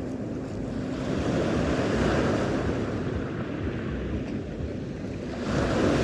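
Sea surf washing on the shore, the rush of water swelling about two seconds in and again near the end.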